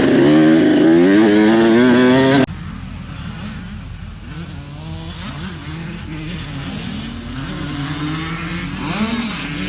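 Motocross dirt bike engines racing. For about two and a half seconds one bike is loud and close, revving up. Then after an abrupt cut several bikes are heard further off, their engine notes rising and falling.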